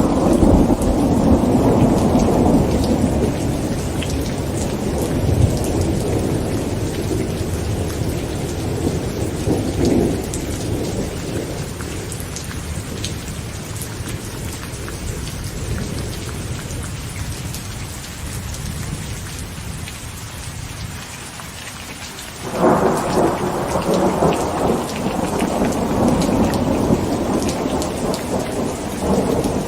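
Heavy rain pattering on a tent with thunder rumbling: a long roll of thunder fades away over the first half, and a new clap breaks in sharply about 22 seconds in and rumbles on.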